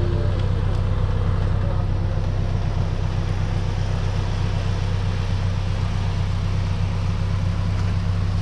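Single-turbo Honda Civic Si's four-cylinder engine idling steadily with an even low hum.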